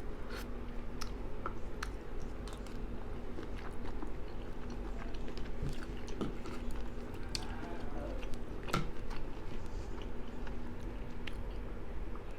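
Close-miked chewing and wet mouth clicks of a person eating gumbo, scattered irregularly, over a steady low hum.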